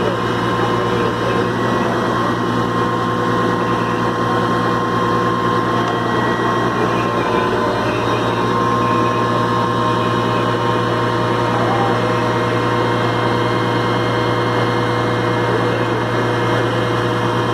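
A large engine running steadily at a constant speed, a low even hum that does not change.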